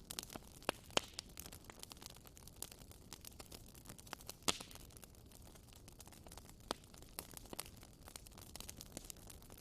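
Campfire of burning wood crackling: irregular sharp pops and snaps over a faint steady hiss, with the loudest pops about a second in and again about four and a half seconds in.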